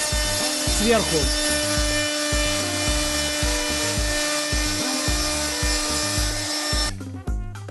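Electric wood router cutting into a log, with a steady buzzing whine rich in overtones that cuts off suddenly near the end.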